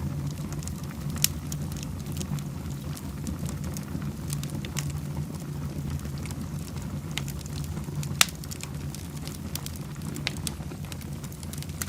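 Wood fire burning in a fireplace: a steady low rumble of the flames with scattered crackles and pops, two sharp pops standing out about a second in and about eight seconds in.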